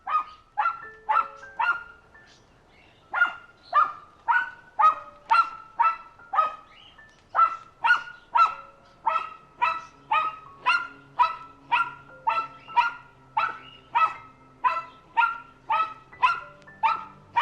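A dog barking over and over, about two to three sharp barks a second, with a brief pause about two seconds in.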